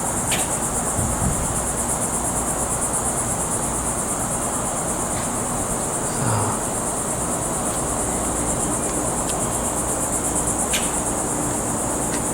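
Steady chorus of insects, a high, fast-pulsing trill that carries on without a break.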